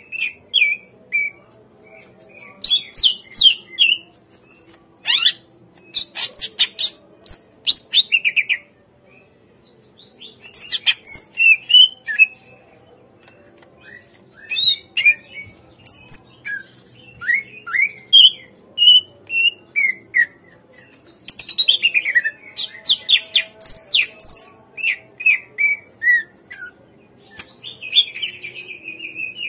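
Cucak ijo (leafbird) singing in full voice: rapid, varied phrases of sharp chirps, trills and sliding whistles, repeated in quick bursts with short pauses between them.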